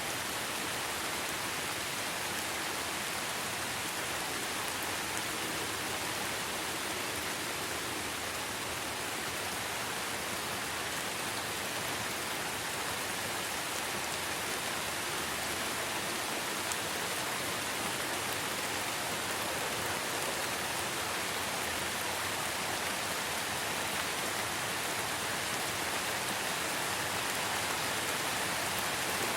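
Steady heavy rainfall, an even hiss of rain on surfaces with many fine drops, unchanging throughout.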